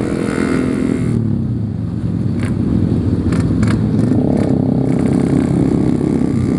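Yamaha RX-King 135cc two-stroke single-cylinder motorcycle engine running under way: the revs drop about a second in, it then pulls steadily and picks up again around the middle. A few short sharp clatters sound over it.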